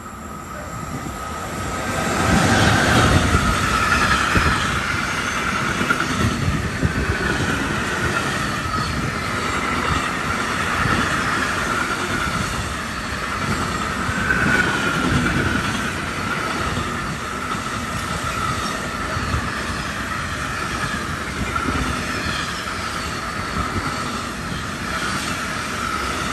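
Train passing close by for a long stretch, its wheels squealing with a steady, wavering high squeal and knocking over the rail joints. It grows louder over the first few seconds, then holds.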